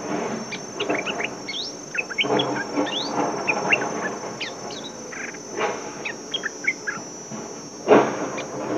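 Bulbuls chirping and giving short, quick rising whistled notes over a steady high insect drone. A few brief noisy bursts break in, the loudest near the end.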